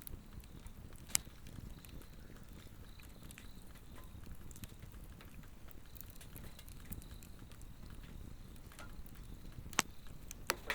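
Swedish torch (split-log fire) burning with a low, steady flame rustle and sharp wood crackles, the loudest about a second in and twice near the end. Insects call faintly throughout in a steady, repeating high chirp.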